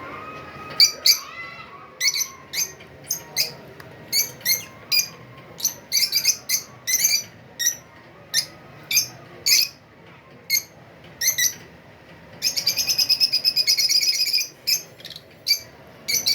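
Budgerigars chirping: short sharp chirps, roughly two a second, with a rapid chattering run of calls lasting nearly two seconds about twelve seconds in.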